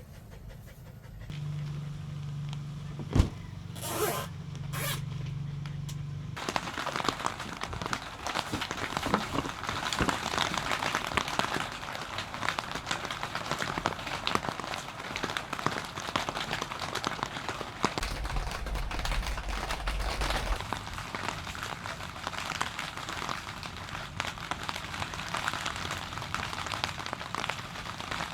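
Steady rain falling on a surface, a dense patter that sets in suddenly about six seconds in. Before it, a few quieter seconds with a low hum and a single sharp knock.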